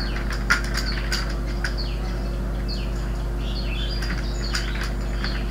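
Small birds chirping in short, scattered calls over a steady electrical hum, with a few faint clicks of keys being typed.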